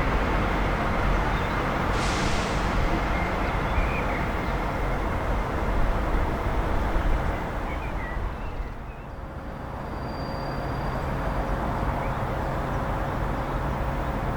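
Diesel train running at the station, a steady rumble with a short hiss about two seconds in; the sound drops away around nine seconds, then rises again.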